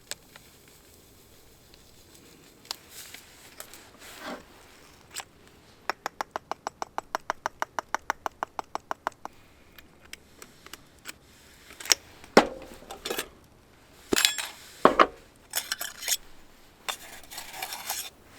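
Cookware and utensils being handled: a quick, even run of clicks, about eight a second for some three seconds, then a few louder clanks and clinks of metal.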